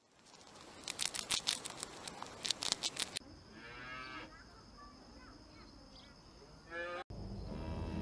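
Quick, crisp clicking for about two seconds as a hamster crunches food. Then cattle moo twice: one call about four seconds in and a shorter, rising one near the end.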